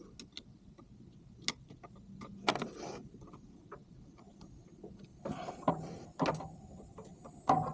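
Scattered clicks and light knocks of hand work on a Volkswagen Beetle engine's carburetor, with a short mechanical hum a little after five seconds in.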